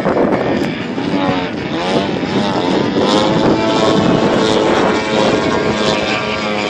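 The twin-cylinder two-stroke gasoline engine of a 35% scale RC Extra 300 (a DA-120) running in flight, its pitch bending up and down in sweeps about a second in.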